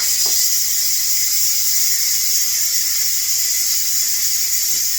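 Electric pressure cooker venting steam through its release valve in a quick release: a loud, steady, high hiss that starts suddenly and holds, with a faint whistle in it.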